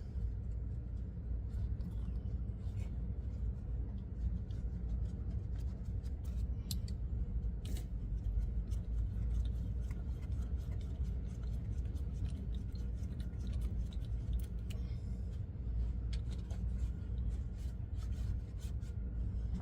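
Ratchet wrench clicking in irregular runs as the last bolts holding a truck's power divider are undone, over a steady low rumble.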